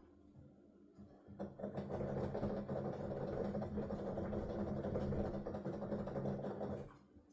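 Rapid clatter and thumping of a digital piano's keys being played with the headphones on, so no piano tone is heard, only the key action. It starts about a second in and stops shortly before the end.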